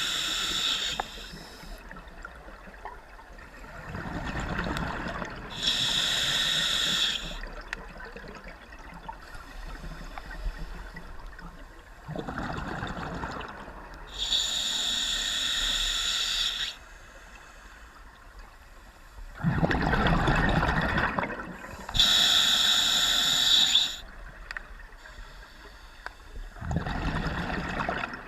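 Engine-room machinery cycling: a hissing burst alternates with a lower rushing sound, the pair repeating about every eight seconds over a steady background hum.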